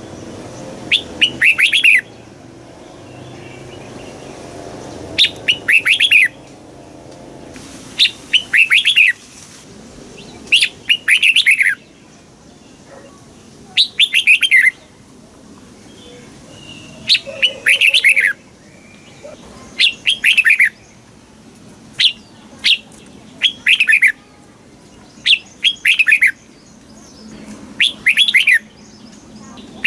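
Red-whiskered bulbul singing: short, loud phrases of quick falling whistled notes, repeated every two to three seconds.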